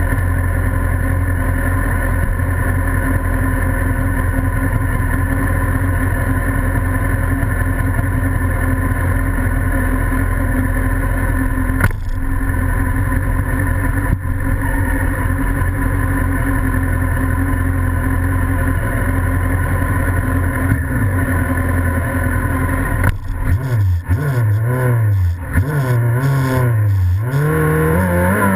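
Racing sidecar outfit's engine idling steadily on the grid, then from about two thirds of the way in revved up and down repeatedly, the revs climbing near the end as the start approaches.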